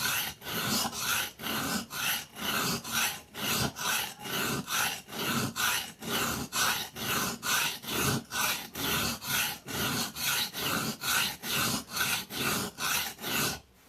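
Knife blade stroked back and forth on a wet whetstone, a steady run of rasping strokes about two or three a second that stops near the end.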